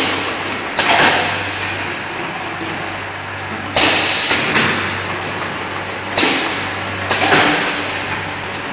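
A 4-nozzle bottle filling machine running: a steady low hum with short bursts of hissing every second or few as it cycles.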